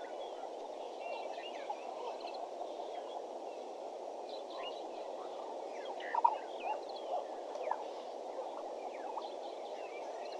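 Dense morning chorus of frogs and birds: a steady chatter of many small overlapping calls, with scattered higher bird chirps above it and one louder call about six seconds in.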